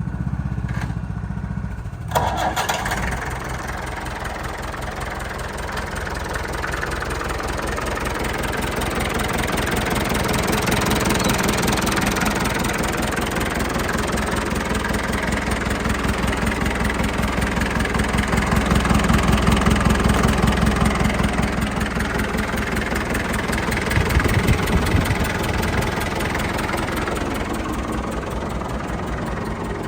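International 444 tractor engine being started: a low cranking sound, then the engine catches about two seconds in and runs with a steady rapid firing beat. It grows louder through the middle and surges briefly near the end.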